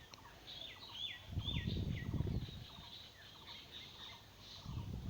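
Small birds chirping in the background, a quick series of short falling chirps, with a low noisy swell about a second in and another near the end.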